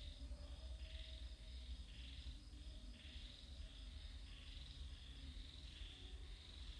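Insects chirring in repeated high-pitched bursts, roughly one a second, over a low rumble.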